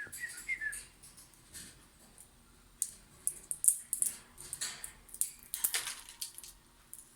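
A pet bird gives a few short chirps at the start. After a couple of seconds comes a run of quick, high-pitched scratching and clicking sounds.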